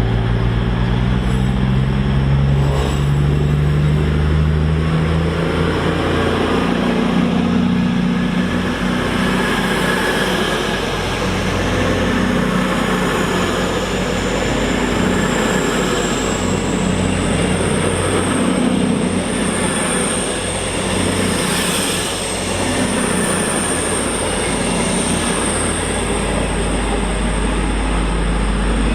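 A train passing through a main-line station, with a steady rumble of wheels on track. A thin high whine rises in pitch through the middle and then holds.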